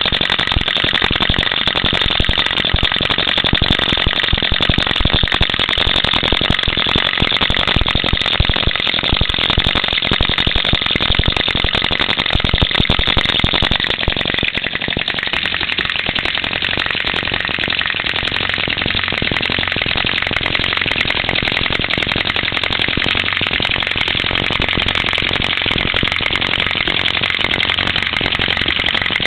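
Small model hit-and-miss engine running, driving a scale model Rumely OilPull tractor, with a rapid, continuous mechanical clatter. About halfway through the clatter turns steadier, with less low rumble.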